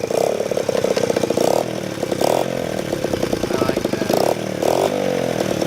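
Honda XR70 dirt bike's small four-stroke single-cylinder engine running just after starting, idling with a quick firing beat and revved up briefly several times.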